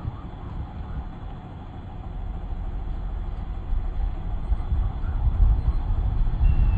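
Safari vehicle's engine running as it drives along, a low steady rumble that grows louder over the last few seconds.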